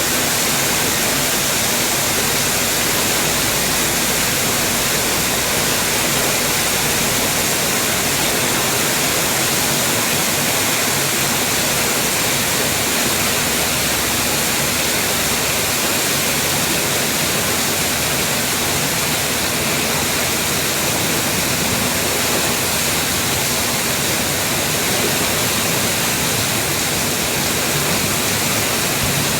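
Heavy rain falling steadily: an even, unbroken hiss of rain with no separate drops or breaks standing out.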